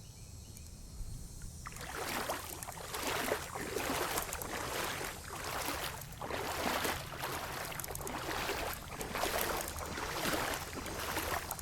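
Footsteps wading through ankle-deep floodwater: rhythmic sloshing and swishing of water around the legs, a bit more than one stride a second, starting about two seconds in.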